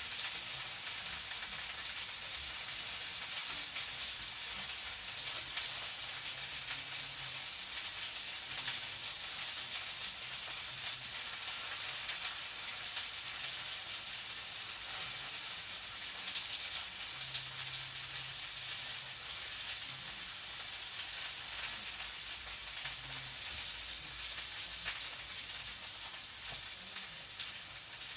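Food frying in a pan: a steady sizzle dotted with small crackles.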